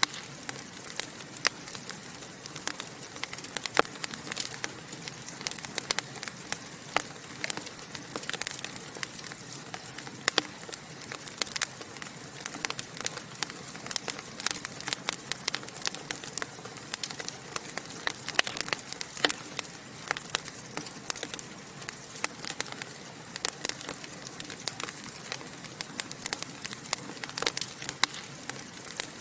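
Wood fire crackling and popping steadily, a dense run of irregular sharp snaps over a soft hiss of burning.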